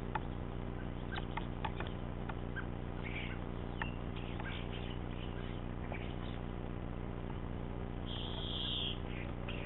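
Scattered sharp taps of a great spotted woodpecker pecking at peanuts in a hanging log feeder, with faint short bird calls over a steady low hum. About eight seconds in comes a brighter high-pitched sound lasting nearly a second.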